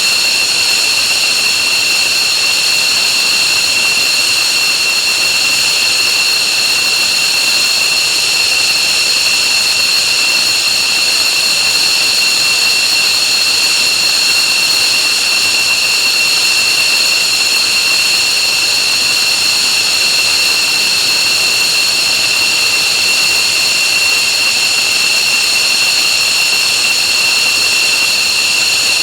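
F-15J's twin Pratt & Whitney F100 turbofan engines running steadily, a loud, even jet hiss with a piercing high-pitched whine that holds at one pitch throughout.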